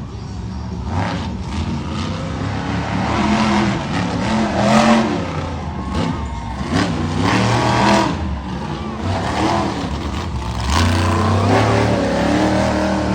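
Monster truck engine revving hard in repeated surges, the pitch climbing and dropping as the throttle is worked during a freestyle run.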